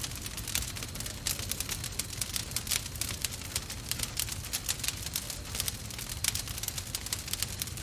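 Wood fire in a fireplace crackling, with many quick irregular snaps and pops over a low steady rumble.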